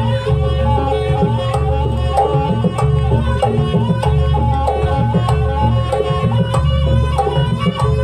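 Live East Javanese dance accompaniment: drums, likely kendang hand drums, keep up a fast, busy rhythm under a held drone note and a wavering melody line.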